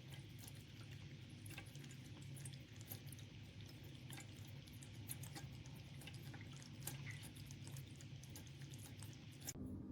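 Stainless steel pet water fountain running: water trickling and dripping in small irregular splashes over a steady low pump hum. The water sound stops abruptly near the end.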